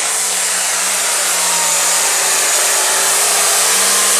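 Limited pro stock pulling tractor's turbocharged diesel engine running flat out under load during a pull: a loud, steady rushing engine note that builds slightly towards the end.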